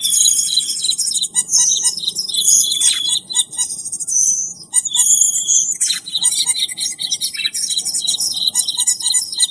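Cucak keling bird song played as a lure call: rapid, continuous high chirps and trills, with short repeated lower notes underneath.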